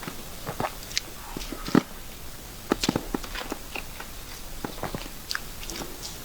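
Close-miked chewing and wet mouth sounds from eating cream cake: an irregular scatter of soft smacks and clicks, the sharpest a little under 2 seconds in and again around 3 seconds in.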